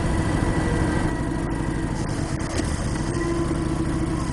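Motorcycle engine running steadily while riding, under an even hiss of road and wind noise.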